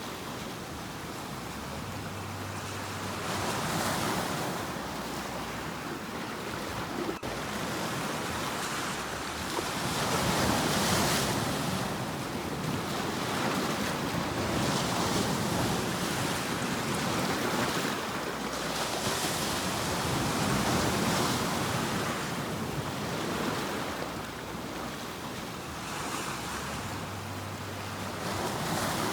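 Ocean waves breaking and washing onto a shore, swelling and easing every few seconds in a continuous surf.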